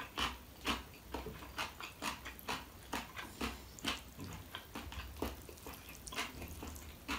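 Close-miked chewing of seolleongtang beef and noodles: wet mouth smacks and clicks about twice a second.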